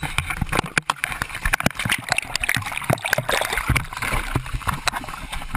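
Seawater sloshing and splashing inside a ditched plane's flooding cabin as people move through it, with many sharp knocks and handling bumps on the camera.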